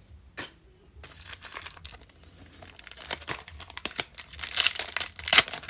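Foil trading-card packs being torn open and crinkled by hand: a dense run of crackling and tearing that builds from about a second in and is loudest near the end.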